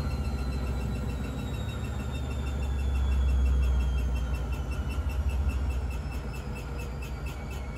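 Blomberg fuzzyDigitronic Granat 3200 washing machine's drum motor whining down as the drum slows from a spin, the whine falling steadily in pitch over a low hum, with a faint even pulsing.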